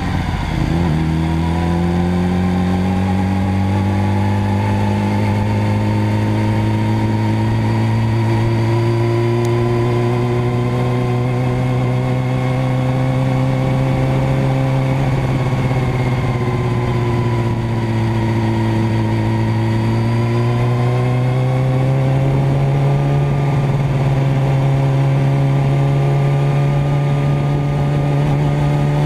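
Motorcycle engine running steadily under light, held throttle, its note creeping slowly up in pitch, dipping a little around the middle and climbing again near the end.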